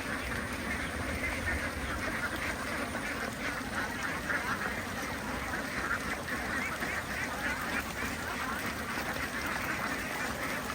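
A large flock of domestic ducks quacking together in a continuous, overlapping din.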